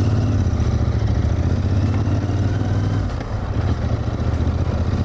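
Cafe racer motorcycle engine running at low revs, a steady low pulsing that eases off briefly about three seconds in and then picks up again.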